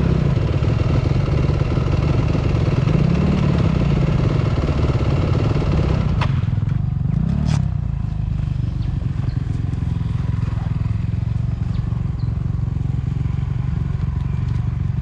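Dirt bike engine running, its pitch rising and falling a few times as the throttle is worked, then settling to a lower, steadier note after a couple of sharp clicks about six to seven seconds in.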